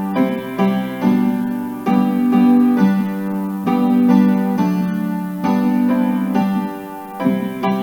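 Piano playing a slow hymn in full chords, each chord struck together and held briefly before the next.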